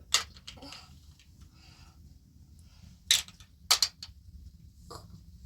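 A few sharp knocks of hard objects: one just after the start, a loud one about three seconds in, a quick double knock just before four seconds, and a softer one near five seconds.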